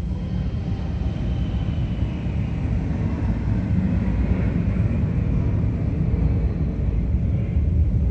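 Douglas C-47 (DC-3) twin radial piston engines running on the ground during warm-up: a steady deep rumble that grows slightly louder through the second half.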